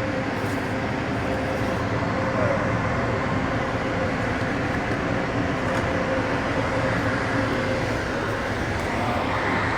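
Steady mechanical drone with a constant low hum, unbroken throughout.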